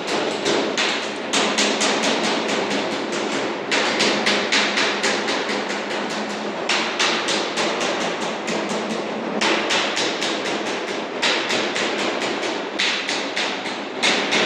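Rapid hammer strikes on sheet-metal ductwork, several blows a second in runs of a few seconds with brief breaks between them.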